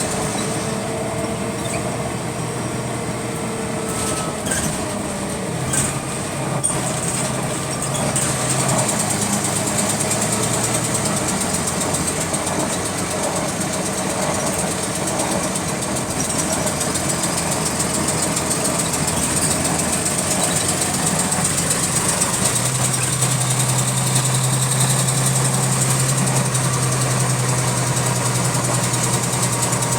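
Bus engine running steadily with a repetitive clicking that keeps time with engine speed. A few sharper clicks come in the first several seconds, and the engine note steadies a little louder near the end.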